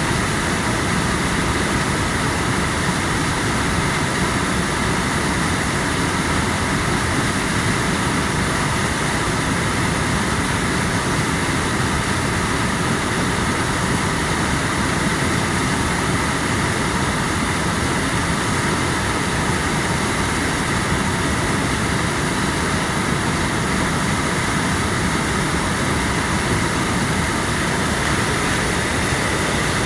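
Waterfall running down a mountainside: a steady, unbroken rush of falling water.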